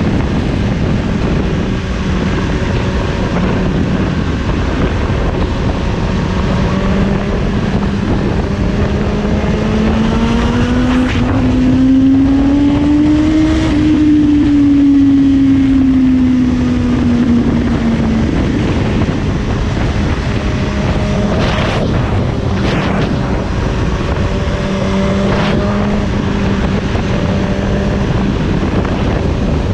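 Suzuki GSX-S750's inline-four engine running at a steady cruise, with wind noise on the microphone. About ten seconds in, the revs climb for a few seconds, then ease back down and settle to a steady cruise again.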